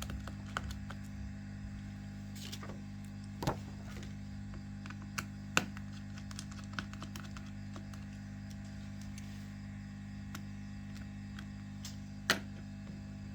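Scattered sharp clicks and taps of small tools against a smartphone's parts as it is taken apart, the loudest about three and a half, five and a half and twelve seconds in, over a steady low hum.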